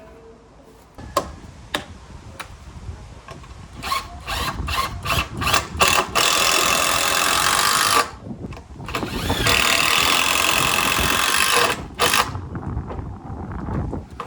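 A power tool, of the drill kind, run in a string of short bursts and then in two longer runs of about two seconds each, after a few sharp knocks.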